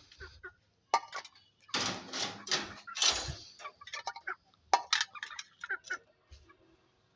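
Clinking and knocking of hard objects, with sharp clicks and a stretch of rustling in between.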